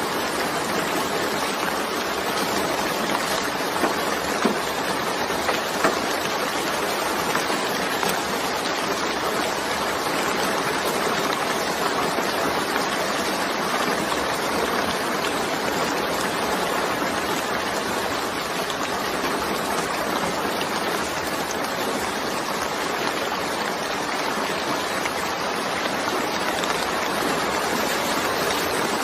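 Steady, dense rainfall hissing evenly, with a few sharper drop taps standing out about four to six seconds in.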